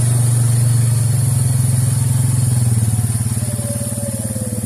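Suzuki Eiger 400 ATV's single-cylinder engine running at low, steady revs while the quad moves through deep flood water, easing off slightly after about three seconds.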